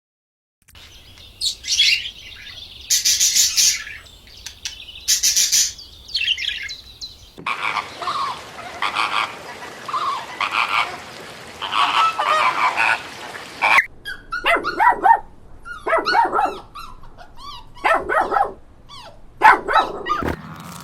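Frog and bird calls in three back-to-back clips with abrupt cuts between them: high, pulsed chirping first, then a lower pulsing chorus, then a run of quick sweeping calls.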